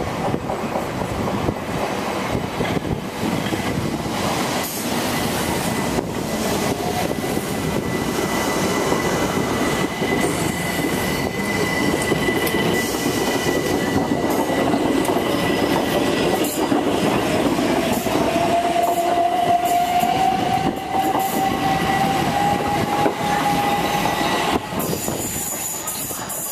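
Class 455 electric train running through the station: a steady rumble of wheels on rails, with a thin high wheel squeal through the middle. In the second half a slowly rising whine joins in, and the sound drops off suddenly shortly before the end.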